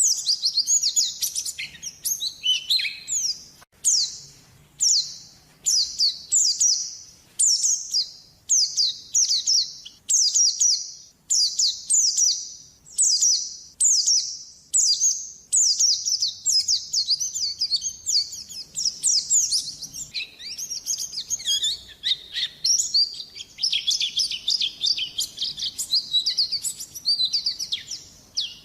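White-eye (pleci) in full, vigorous song: short, high, rapid phrases repeated about once a second, then a denser unbroken warble that dips lower in pitch in the last third.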